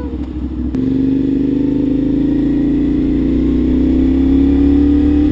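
CFMOTO 450SR's parallel-twin engine under way, heard from the bike. After a short click about a second in, it pulls steadily with the revs rising slowly.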